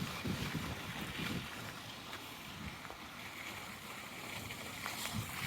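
Faint wind rumbling on the microphone over a steady outdoor hiss, with gusts coming and going.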